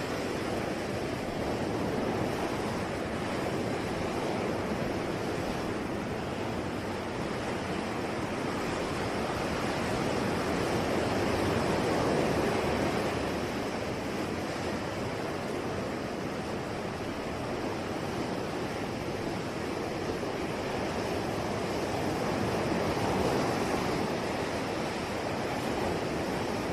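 Ocean waves washing on a shore: a continuous rush of surf that swells and ebbs slowly, peaking about every ten seconds.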